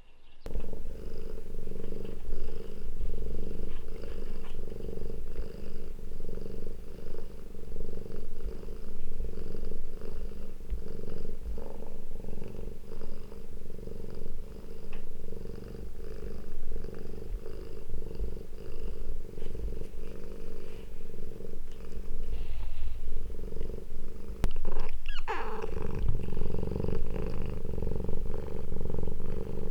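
Cat purring steadily and close up, a low pulsing rumble, with one short rising-and-falling call, likely a brief meow, about 25 seconds in.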